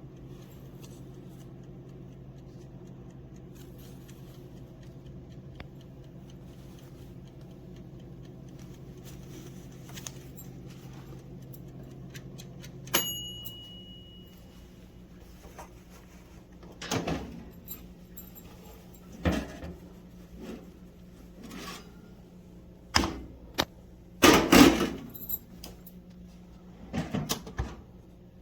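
Countertop toaster oven/air fryer running with a steady low hum; about halfway through its timer bell dings once with a ringing tone and the hum drops away as the oven shuts off. Then come several loud clunks and metallic rattles.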